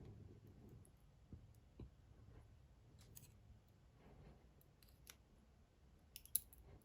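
Faint, scattered small metallic clicks of a Dom IX Twinstar lock being gutted as pin number 2, a spool pin, is worked out. The sharpest click comes near the end.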